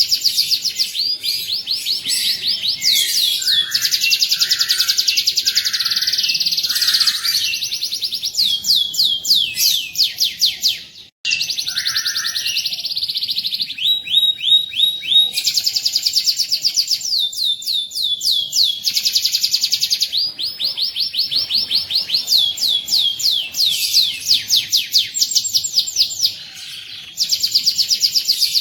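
Domestic canary singing a long, fast song of rapidly repeated trilled notes, the rolling phrases that keepers call 'ngerol'. There is a brief break about eleven seconds in.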